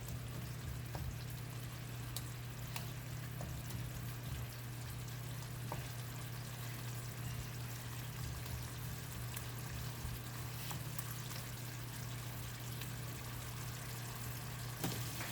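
Red curry sauce simmering and sizzling steadily in a pan as it reduces and thickens, over a constant low hum, with a few faint clicks.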